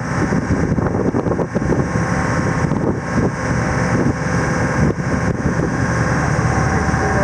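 Motorboat engine running steadily while the boat is underway.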